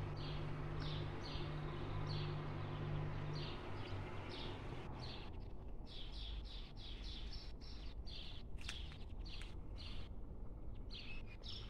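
Small birds chirping: short high chirps repeated several times a second, over a steady background hiss. A low steady hum underneath stops about four seconds in.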